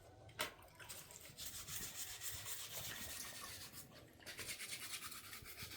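Faint, steady rubbing and rustling noise.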